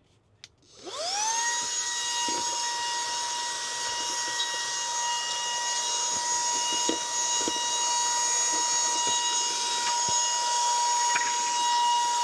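Bayu cordless handheld car vacuum switched on about a second in: its motor spins up in a quickly rising whine, then runs steadily with a high whine and airflow hiss while it vacuums, with a few light knocks as it works.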